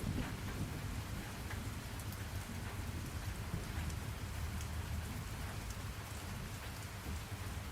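Steady rain falling, with a low rumble of thunder dying away near the start.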